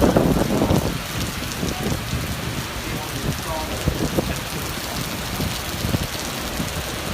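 Storm downpour pelting hard surfaces: a dense hiss of drops with scattered sharper knocks, loudest in the first second.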